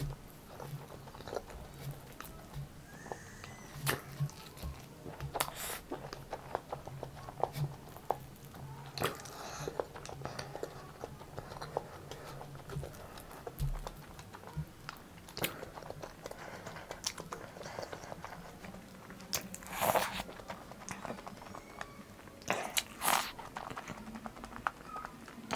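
Close-up chewing of soft, spongy dhokla eaten by hand, with many small mouth clicks and a few louder ones in the second half.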